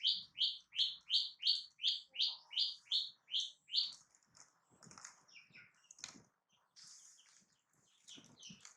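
A run of short, high-pitched animal chirps, about three a second, that stops about four seconds in, followed by faint scattered clicks and rustles.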